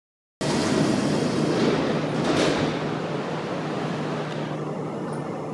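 Electric train running at the station, a steady rumble with a low hum that cuts in suddenly about half a second in, is loudest over the first few seconds, then eases slightly.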